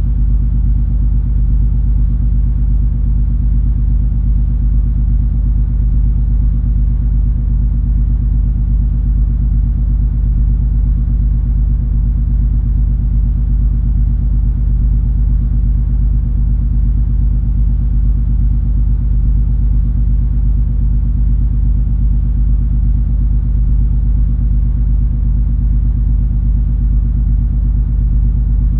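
Steady low rumble of the cruise ferry MS Color Magic under way: a deep drone with a constant mechanical hum on top, unchanging in level.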